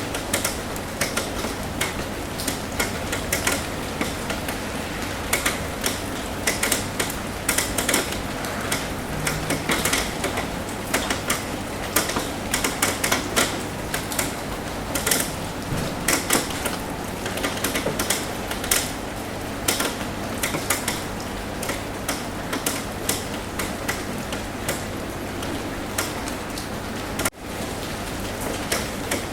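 Rain tapping on a roof: a steady patter with many sharp, irregular drop taps over it. The sound briefly dips out for a moment near the end.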